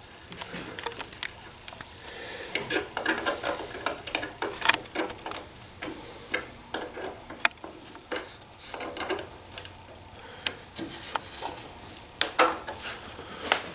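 A nut being put back onto one of a wooden ladder's metal tie rods: irregular small clicks, taps and scraping of metal against metal and wood.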